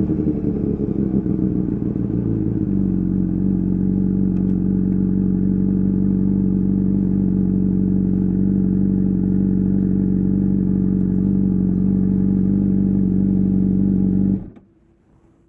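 Honda CBR600RR inline-four engine through an Akrapovič exhaust, revs falling and settling into a steady idle a few seconds in. The sound cuts off suddenly near the end.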